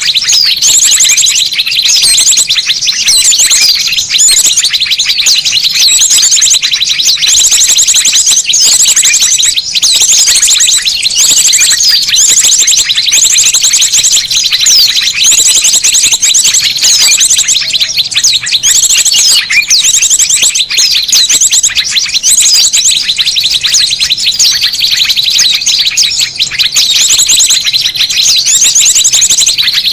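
Loud, dense chorus of small birds chirping and trilling together, with a rapid high trill repeating about every second and a half. It is a bird-luring (pikat) recording of noisy small birds, meant to draw small birds in.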